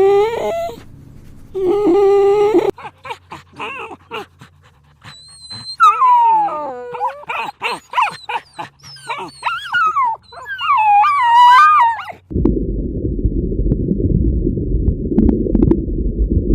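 A dog whining and whimpering in a string of high, wavering cries with short clicks between them. A low, rough, continuous sound takes over suddenly for the last few seconds.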